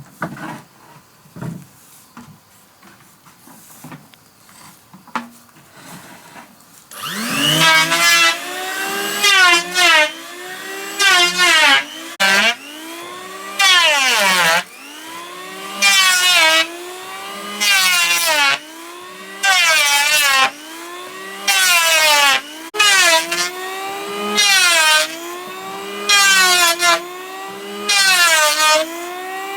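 A few light knocks of hand work on wood, then about seven seconds in a power wood planer starts up. Its motor pitch sags and recovers again and again, with a harsh burst of cutting noise about every one and a half to two seconds as it takes passes along a log.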